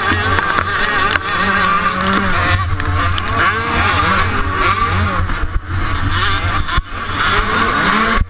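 125cc motocross bike engine revving hard under race throttle, its pitch rising and falling with throttle and gear changes, with a couple of brief throttle cuts about two-thirds of the way through.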